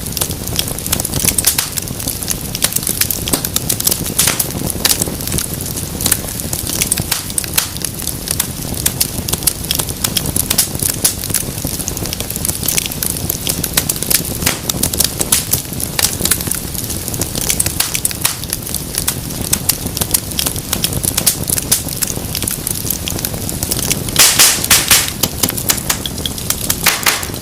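Wood fire crackling, with dense irregular pops and snaps over a steady low rustle of flames; a cluster of louder pops comes near the end.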